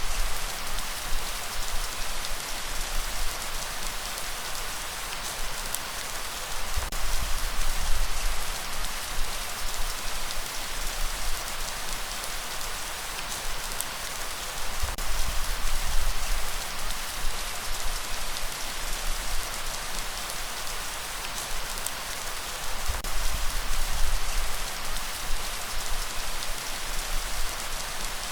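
Steady heavy rain hissing on a surface. A low rumbling surge swells and fades about every eight seconds underneath.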